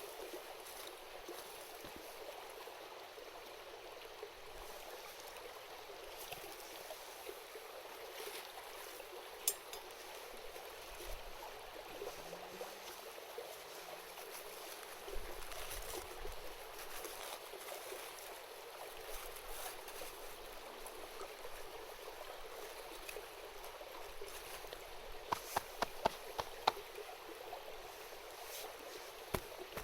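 A river babbling steadily, with a wood campfire crackling over it in scattered sharp pops and a quick run of louder pops near the end.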